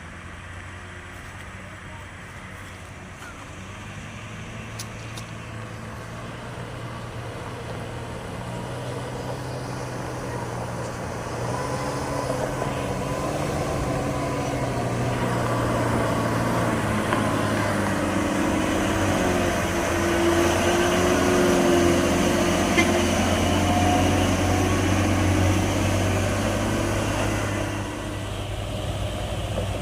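Heavy truck's diesel engine labouring up a steep climb, growing louder over about twenty seconds as it approaches, then easing off a little near the end.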